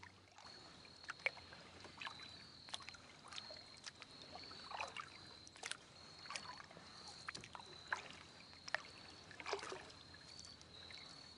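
Kayak paddling, faint: the paddle blades dipping and splashing in the water with dripping, and light clicks and knocks, roughly one stroke every second.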